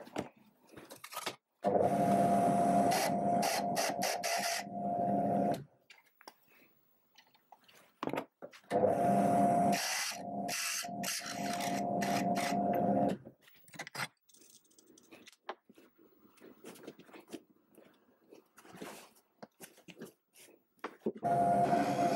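Drill press drilling out holes in a metal circular-saw shroud with an 8 mm bit: the motor runs steadily at one pitch for about four seconds, stops, and runs again for about four seconds, with a third run starting near the end. Small clicks and knocks of handling the work come between the runs.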